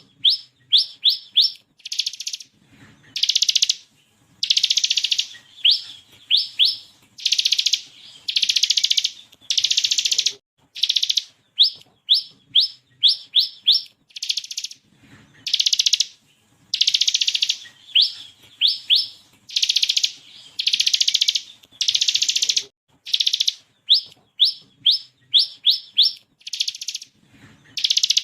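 Ciblek kristal (bar-winged prinia) singing: runs of quick, sharp rising notes, several a second, alternating with harsh buzzy trills about a second long, repeated without pause.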